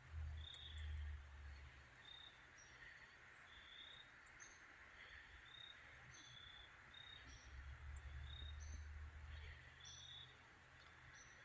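Quiet outdoor ambience: faint, short, high bird chirps about once a second, at two alternating pitches. A low rumble comes in briefly near the start and again later.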